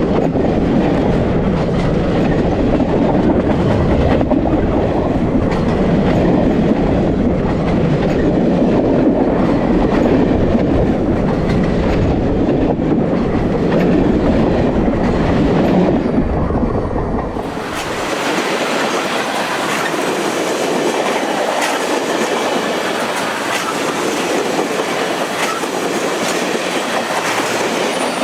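Union Pacific Big Boy 4014's train passing close by on the track, a heavy steady rumble with wheels clacking over the rail joints. About seventeen seconds in the deep rumble drops out abruptly and a thinner, hissier rolling sound carries on.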